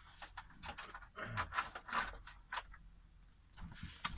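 Small objects being handled: a quick run of rustles, clicks and light scrapes, busiest between about one and three seconds in.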